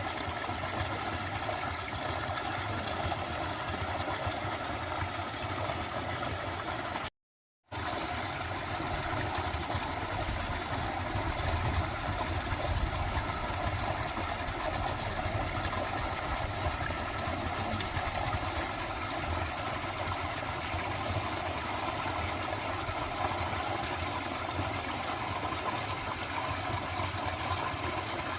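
Dense, steady chorus of frogs trilling, over a low rumble. The sound cuts out completely for about half a second a little after seven seconds in, then resumes.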